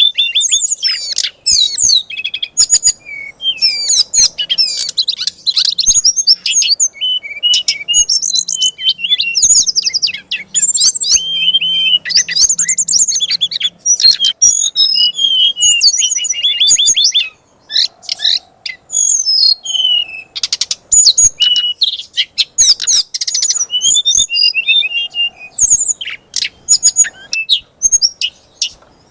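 A songbird singing a rapid, nonstop string of sharp chirps, trills and whistled notes, a fierce "fighter"-style song used by bird keepers to provoke a kacer into answering. The song breaks off briefly twice, about two-thirds of the way in and near the end.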